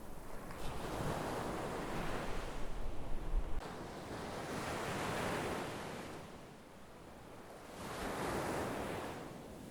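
Sea waves breaking and washing up the shore: three surges of surf, each swelling and then fading away. Wind buffets the microphone with a low rumble during the first few seconds.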